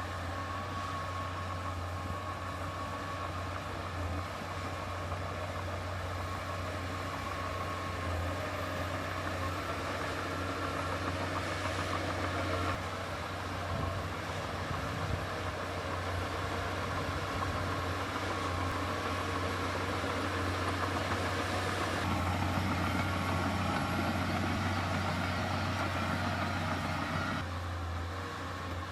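Heavy diesel earthmoving machinery running steadily, its engine note shifting abruptly a few times.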